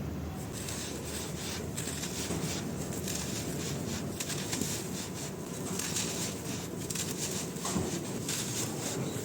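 Soft, crispy dry blocks crumbling and breaking apart: a dense, continuous crackle of fine crumbs with a few sharper crunches.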